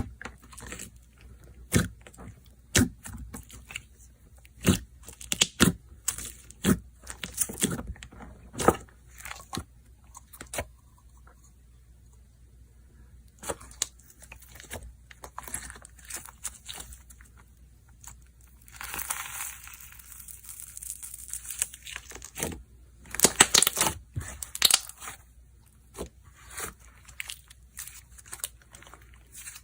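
Slime being squished and stretched by hand, giving irregular sharp pops and clicks, with denser crackling stretches a little past the middle and again a few seconds later.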